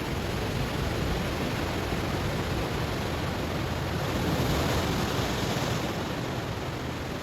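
Ocean waves breaking on a stony shore: a steady wash of surf that swells louder and brighter for about two seconds midway, then recedes.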